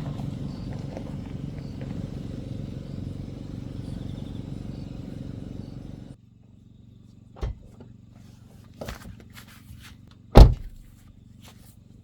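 A car's steady low engine and road hum while driving, which cuts off suddenly about six seconds in. After that come a few light knocks and one loud thud about ten seconds in.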